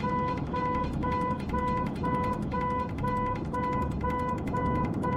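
Electronic beeper sounding a short, even beep about twice a second, over a steady low rumble of traffic or engines.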